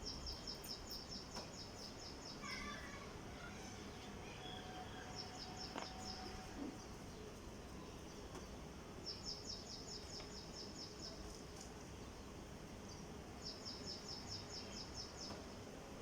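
High, rapid chirping trills, about ten chirps a second, in four bouts of one to two seconds each, over faint steady background noise.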